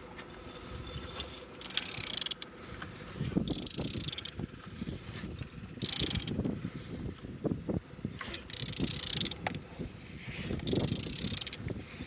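Engine being turned over by hand, with the tool and the engine's moving parts clicking, scraping and knocking in repeated uneven strokes. It turns freely, which is taken as a sign that the engine is not seized.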